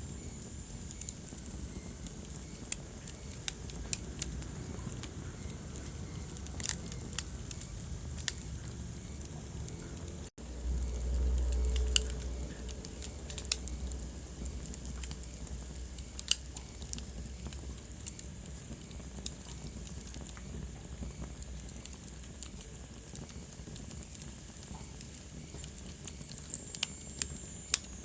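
Wood fire in a fireplace crackling, with irregular sharp pops over a steady hiss and a faint high whistle at the start and near the end. About ten seconds in the sound cuts out for an instant, then a low rumble of flames swells for a couple of seconds before the crackling carries on.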